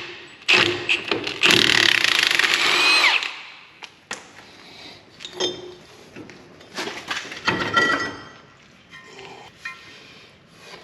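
Handheld power tool running in two loud bursts in the first few seconds, during brake work on a Jeep Wrangler. Scattered metal clinks and knocks of tools and parts follow.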